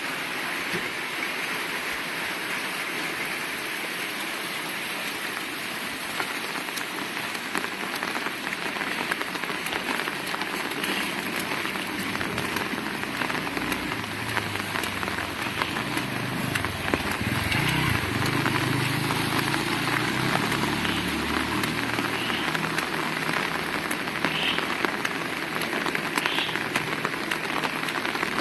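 Heavy rain falling steadily. About halfway through, a low rumble swells for several seconds and then eases.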